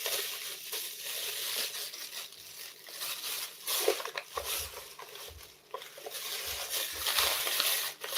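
Rustling and crinkling handling noise with scattered light knocks and a few soft low thuds in the second half.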